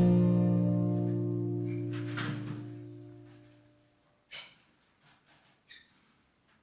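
Background music: an acoustic guitar chord ringing out and fading away over about four seconds, followed by a few faint short sounds.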